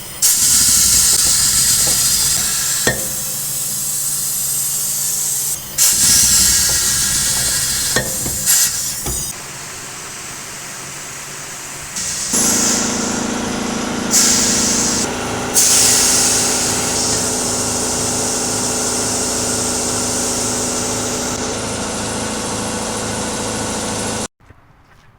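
Loud hissing jet, started and stopped several times, with a machine's steady hum coming in about twelve seconds in; both cut off together shortly before the end.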